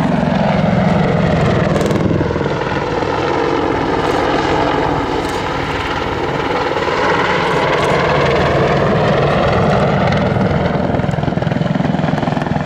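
Boeing AH-64 Apache helicopter flying a display manoeuvre: loud, continuous thudding from its four-blade main rotor under the whine of its twin turbine engines. The sound sweeps down in pitch and then back up as the helicopter moves through the air.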